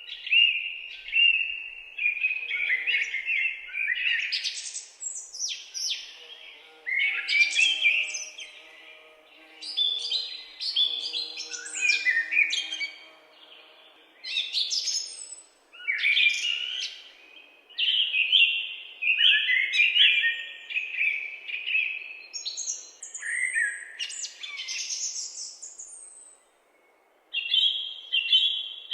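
Songbirds singing and chirping, many quick, overlapping phrases coming in bursts with short pauses between. The sound drops out briefly a little before the end.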